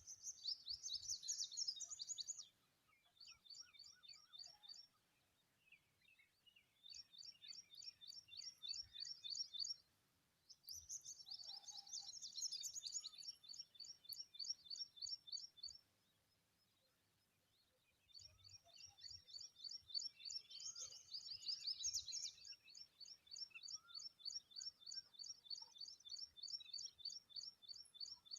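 Common babblers calling: rapid, high-pitched chirps repeated several times a second in bouts, with short pauses between them and a gap of about two seconds past the middle.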